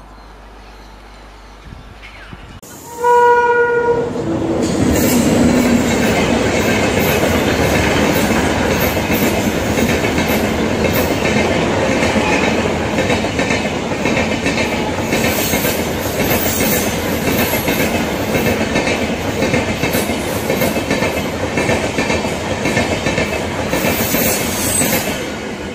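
A locomotive horn sounds for about a second, a few seconds in, then an express train of LHB coaches runs past close by at speed: a steady rumble with rhythmic clicking of wheels over the rail joints, fading near the end.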